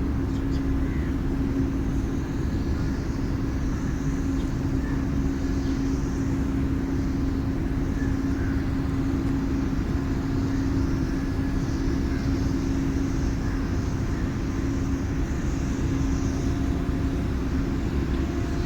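Steady low rumble with a constant hum, from running motor machinery.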